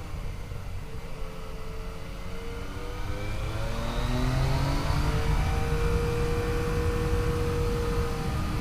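Yamaha FJ-09's inline three-cylinder engine under way, with wind rumbling on the helmet or bike camera. The engine tone eases at first, then climbs as the bike accelerates about three seconds in, and settles to a steady pitch.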